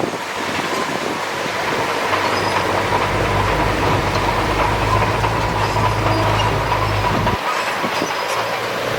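Bulldozer running with its steel crawler tracks clanking and squealing. A steady high whine runs through, and a deeper engine hum comes in about two seconds in and drops away near the end.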